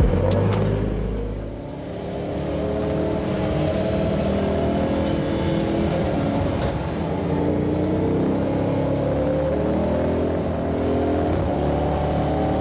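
Race car engine running hard under load on track. Its pitch dips and drops in loudness about two seconds in, then climbs and holds high revs.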